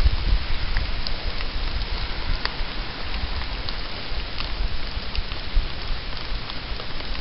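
Steady rain falling during a thunderstorm, a dense hiss dotted with the ticks of single drops striking nearby, over an uneven low rumble.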